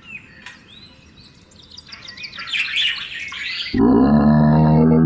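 Birds chirping and trilling, growing busier, then about four seconds in a loud, low, drawn-out animal call with a steady pitch cuts over them for over a second.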